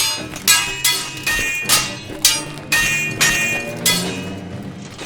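Steel swords clashing in a rapid series of about nine blows, roughly two a second, each strike leaving a bright metallic ring.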